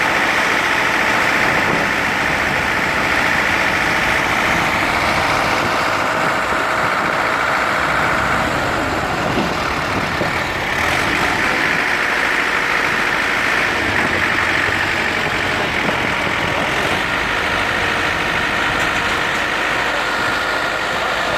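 An engine running steadily with an even, unbroken noise.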